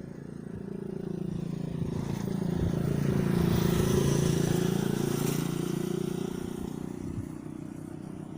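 A motor vehicle's engine passing by, its steady hum growing louder to a peak about four seconds in and then fading away.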